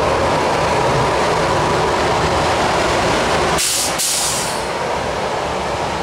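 Electric train passing close: a steady rumble of wheels on rail with a faint whine running through it. About three and a half seconds in comes a short double burst of hiss lasting about a second, and the sound eases a little after it.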